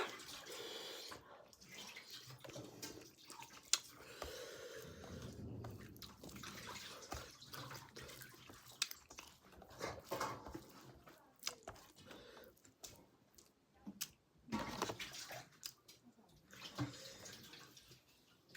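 Close-up wet chewing and lip-smacking of a person eating, in irregular clicks and short bursts with brief pauses between them.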